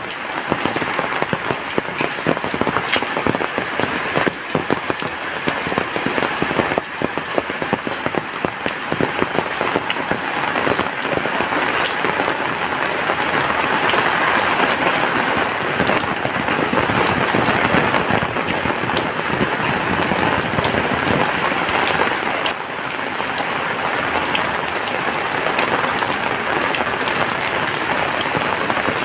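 Heavy rain falling: a dense, steady hiss thick with individual drop hits, swelling a little midway through.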